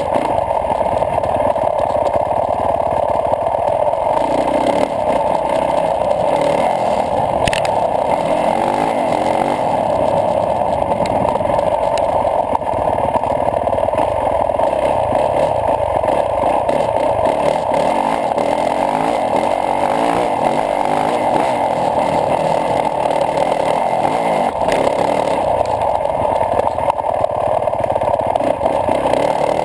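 Yamaha YZ450F dirt bike's four-stroke single-cylinder engine running under load and revving up and down as it rides a dirt trail, under a steady rushing noise. One sharp click about seven and a half seconds in.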